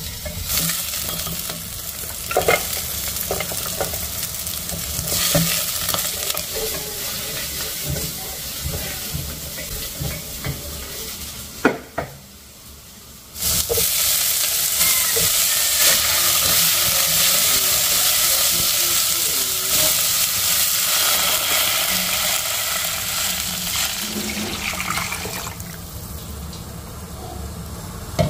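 Diced carrots, potatoes, green onion and ground meat sizzling in hot oil in a nonstick pot, stirred with a wooden spatula that knocks and scrapes now and then. The sizzle drops away for about a second and a half about twelve seconds in, then comes back louder.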